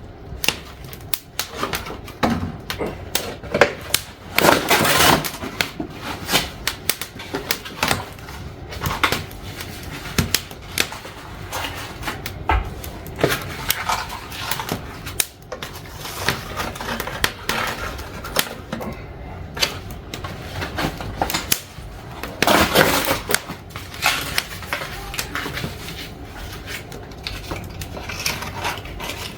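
Newly lit kindling and paper fire crackling and popping with irregular clicks, while the fire is still catching. Two louder rushing surges come about five seconds in and again near the end.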